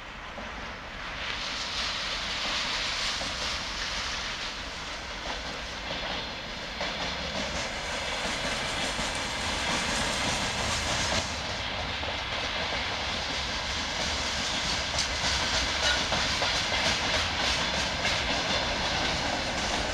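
Freight train wagons rolling past close by: a steady rush of steel wheels on rails that swells over the first couple of seconds and then holds.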